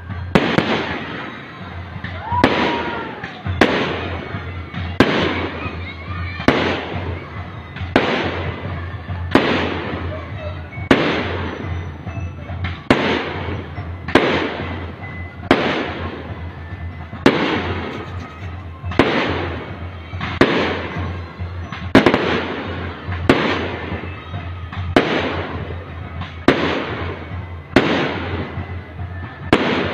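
Aerial firework shells bursting in a steady series, about one bang every second and a half, each followed by a fading rumble.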